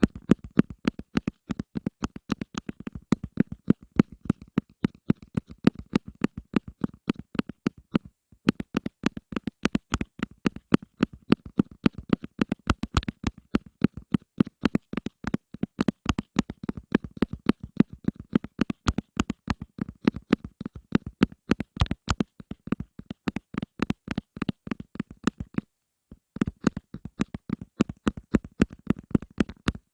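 Rapid tapping and hand sounds close to the microphone, many taps a second, with short breaks about eight seconds in and again near the end.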